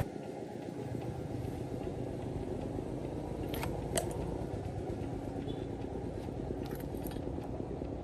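A running vehicle engine: a steady low rumble, with a few sharp clicks about halfway through and again near the end.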